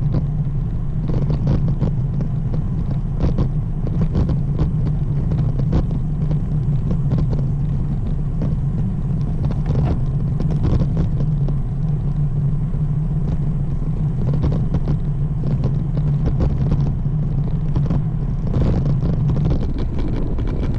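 Steady low rumble of riding a road bike: wind buffeting the camera microphone mixed with tyre noise on the pavement, with scattered knocks and rattles. The low drone drops out near the end.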